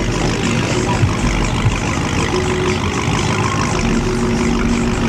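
Car engines running in a steady loud rumble, with two brief sharp pops about a second apart early on.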